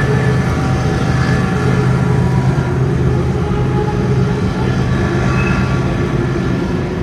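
CSX freight train rolling across a steel girder railroad bridge overhead: a loud, steady rumble of the passing cars.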